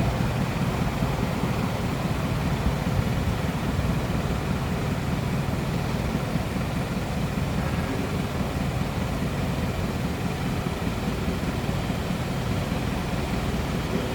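A truck engine idling steadily: a low, even rumble that holds without change.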